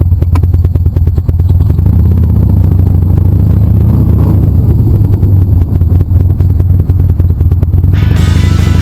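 Motorcycle running steadily on the road with a loud, even low rumble. Music comes in near the end.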